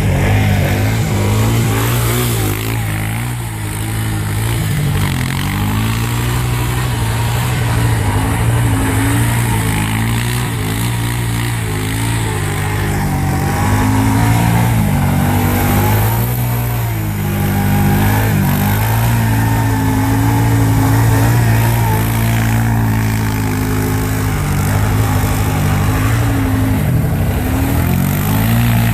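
Small petrol engine running continuously, its speed rising and falling as the throttle is worked.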